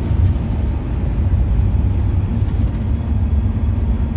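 Steady low rumble of a bus's engine and road noise, heard from inside the cabin.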